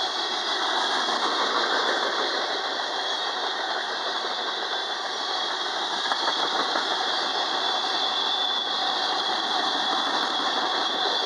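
A freight train's cars rolling past: steady wheel-on-rail noise, with light clicking of wheels over rail joints.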